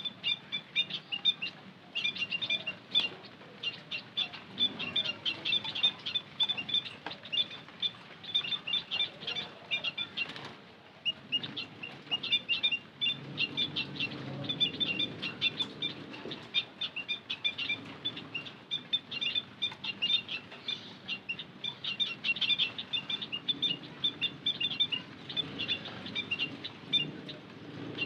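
White-headed munias chirping in a dense, continuous run of short, thin, high notes, the lure call used to draw in wild birds, with a brief pause about ten seconds in.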